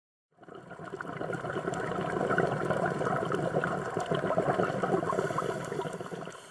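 Underwater sound picked up through a camera housing: a dense bubbling crackle with many small clicks, fading in and out.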